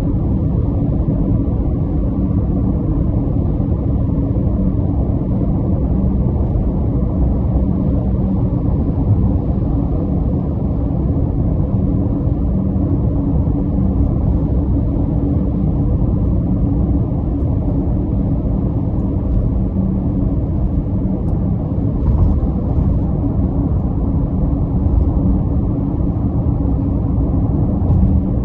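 Steady low rumble of a running vehicle, with a faint, even engine drone.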